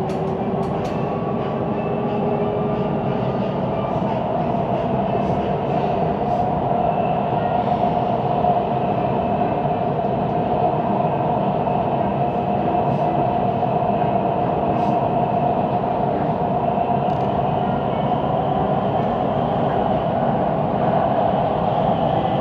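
Siemens Inspiro metro train running at speed between stations, heard from inside the carriage: a steady rolling rumble with a drone held over it, the weird rolling noise of this ride. A few sharp clicks come in the first second.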